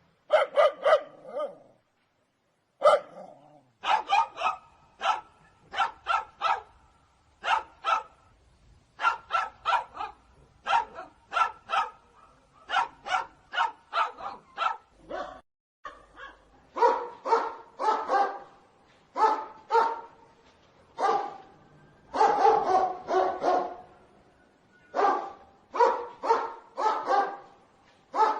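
Dog barking over and over, in quick runs of two to four barks with short pauses between them.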